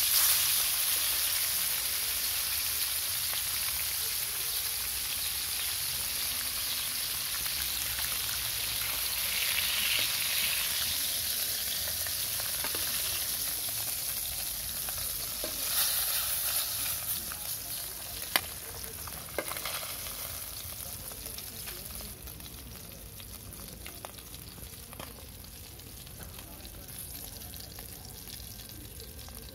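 Catfish pieces frying in hot oil in an iron kadai: a steady sizzle that grows quieter in the last third. A couple of sharp metal clicks from the tongs against the pan near the middle.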